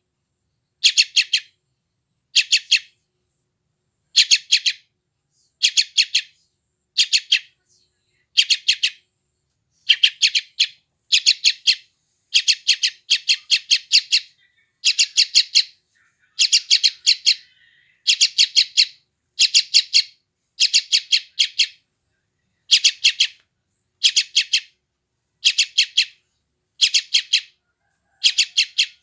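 Yellow-vented bulbul chick calling: clusters of a few rapid, high chirps, repeated about once a second. These are the calls of a hungry chick.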